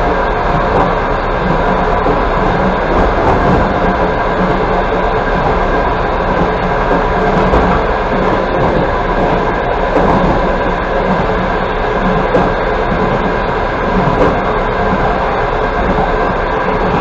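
Passenger train running at speed, heard from inside the carriage: steady rolling noise of wheels on rail, a dense, even rumble without distinct rail-joint clicks.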